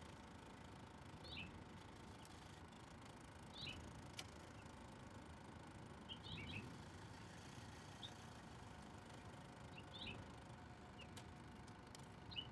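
A small bird chirping faintly, short high chirps about every two seconds, over a quiet outdoor background.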